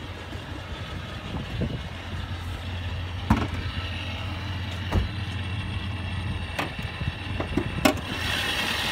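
Supercharged 392 HEMI V8 of a Dodge Challenger SRT8 idling steadily, with a few sharp clicks and knocks from the door and hood latch. The engine sound grows louder and hissier near the end as the hood comes up.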